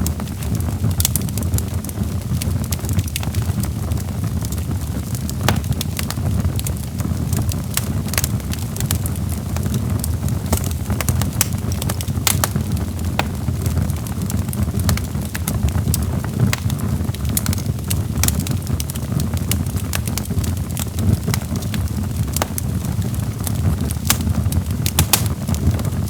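Logs burning in a fireplace: a steady low rumble of flame with frequent, irregular sharp crackles and pops.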